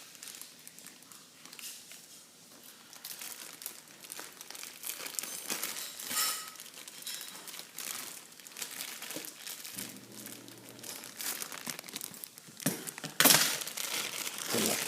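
Packaging crinkling and rustling as it is handled and pulled about, with a louder burst of crinkling near the end.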